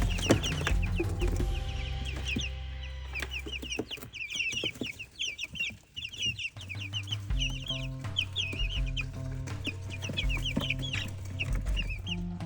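A brood of young chicks peeping, many short high chirps in quick succession, over background music with a low bassline.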